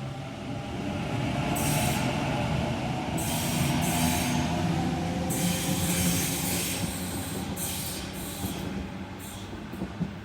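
Sydney Trains Waratah A-set electric train (set A11) moving through the station: a steady rail rumble with motor whine. It swells to its loudest in the middle and eases off toward the end, with several short bursts of hiss.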